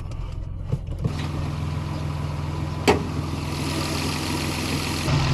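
Turbocharged Acura TL Type-S V6 engine idling steadily, with a single sharp click about three seconds in.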